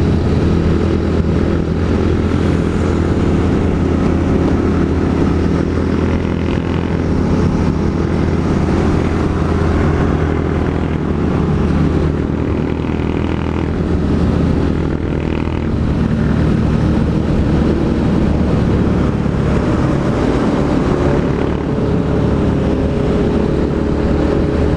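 Honda Fan 160's single-cylinder four-stroke engine running steadily under way through a new Pro Tork GP Competition aftermarket exhaust, heard from on the motorcycle. Near the end a rising tone comes in as the revs climb.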